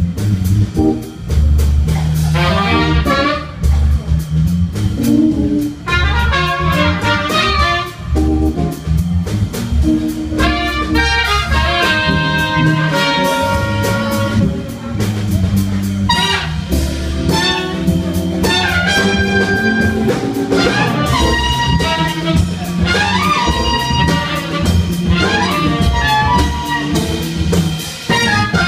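Live jazz-funk band: horn phrases from tenor saxophone and trumpet over Hammond organ and a steady drum groove.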